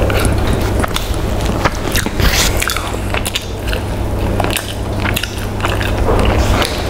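Close-miked chewing and eating sounds of a person eating fried chicken and rice by hand: irregular wet clicks and smacks of the mouth, over a steady low hum.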